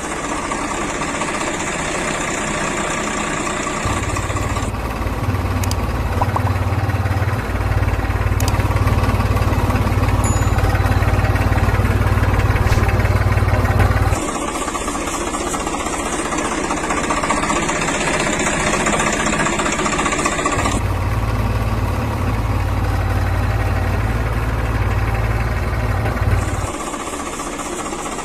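Tractor-style engine sound running steadily. It switches abruptly several times between a lighter running and a heavier, deeper rumble, with the heavier stretches a little louder.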